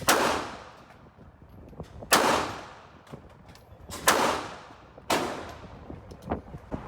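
Four gunshots fired one at a time at a shooting range, spaced about one to two seconds apart, each with a ringing tail that dies away. Fainter shots are heard in between.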